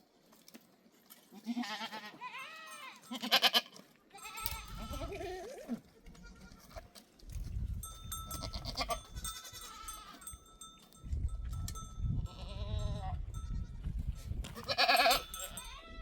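Goats bleating several times, the loudest calls about three seconds in and near the end, with a bell ringing during the middle stretch and a low rumble underneath at times.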